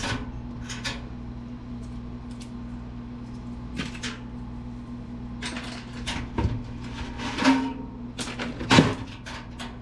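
Scattered knocks and clatter of desktop computer parts being handled and taken apart, the loudest near the end, over a steady low hum.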